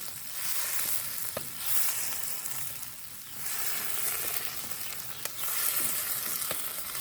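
Chopped tomatoes, peppers and onion sizzling in hot olive oil in a wok, the hiss swelling and easing in waves as they are stirred with a wooden spatula, with a few short taps.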